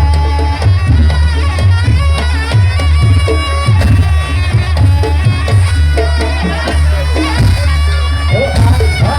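Traditional East Javanese Jaranan Buto ensemble playing: a reedy slompret shawm carries a wavering melody over quick kendang drum strokes and a deep, steady low drone of gongs.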